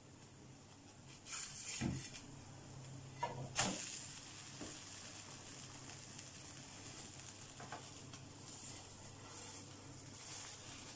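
Vegetable rice paratha frying in ghee in a nonstick pan, a faint steady sizzle. A few louder scrapes and knocks of the silicone spatula against the pan come about one and a half and three and a half seconds in.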